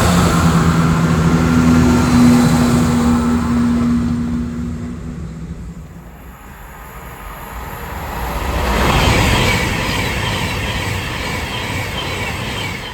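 A train passing through the station: loud at first with a steady low hum, dying away over about five seconds, then a second rush of noise swells about nine seconds in.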